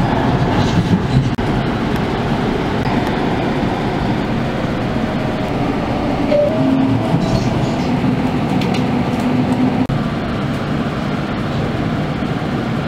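Passenger train running at speed, heard from inside the carriage: a steady rumble of wheels on the rails, with a faint hum coming and going in the middle.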